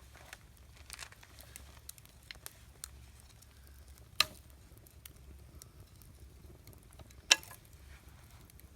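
Wood campfire crackling with scattered small ticks, and two sharp, loud pops about four seconds in and again near seven seconds.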